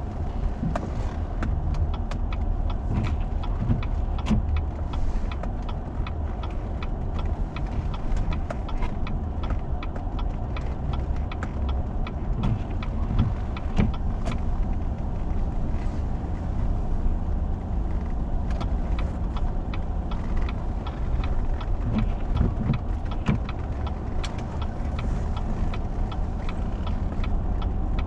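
Four-wheel-drive vehicle driving on a snow-covered road: a steady low rumble of engine and tyres, with frequent small clicks and knocks throughout.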